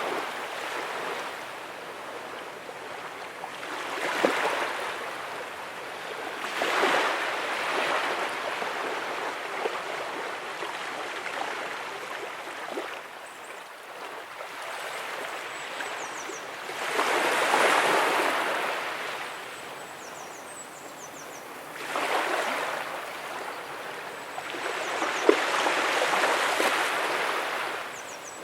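Small ocean waves breaking and washing up the beach, the surf swelling every few seconds and easing off in between.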